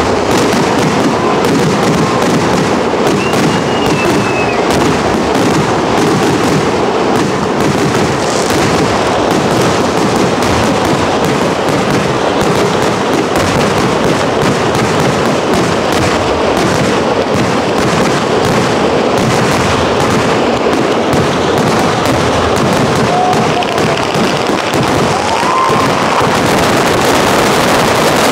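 Kerala temple-festival fireworks going off in a dense, unbroken barrage of rapid bangs and crackling, loud and without a pause. Two brief whistling tones rise over it, a few seconds in and again near the end.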